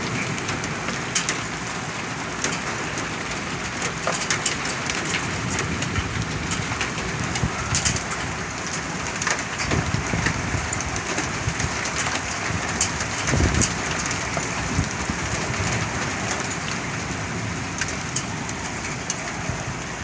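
Hailstorm: hail and rain falling steadily on hard surfaces, a dense patter studded with many sharp ticks of hailstones striking.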